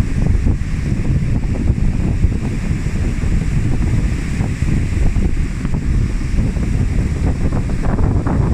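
Strong wind buffeting the microphone in a rumbling, gusty roar, over the noise of stormy sea surf.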